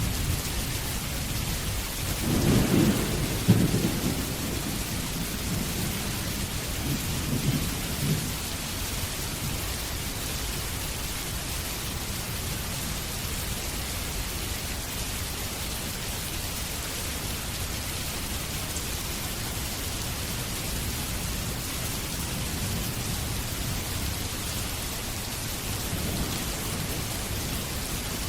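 Steady heavy rain with rolls of thunder: a loud rumble about two seconds in, a weaker one a few seconds later, then rain alone.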